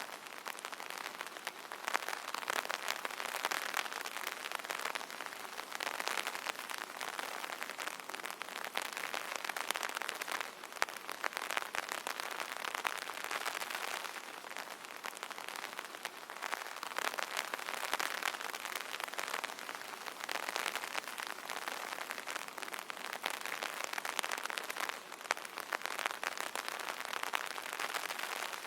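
Rain pattering on an umbrella canopy: a dense, steady patter of many drops that swells and eases every few seconds.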